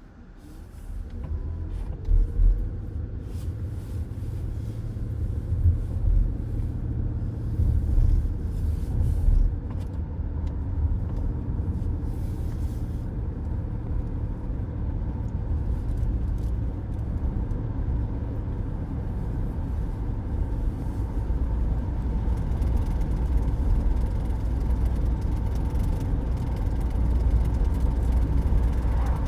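Road noise inside a moving car's cabin: a steady low rumble of tyres and engine that builds over the first two seconds, with a few louder thumps along the way.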